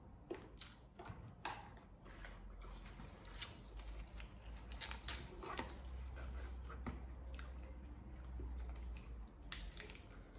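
Close-miked chewing and mouth sounds, then crisp lettuce leaves crinkling and crackling as they are torn and folded around food, in scattered sharp crackles.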